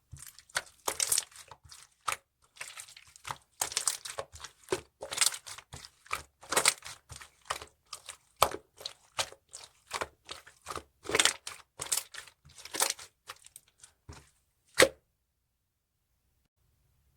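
Clear slime being squished and stretched by hand, making quick sticky clicks and crackling pops. It stops suddenly about fifteen seconds in.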